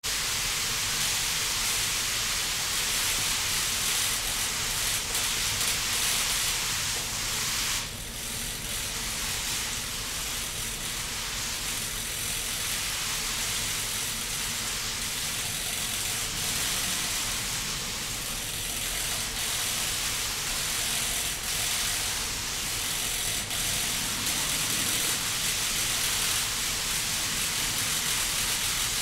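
Water falling from a digital rain curtain and splashing below, a steady rushing hiss that dips briefly about eight seconds in.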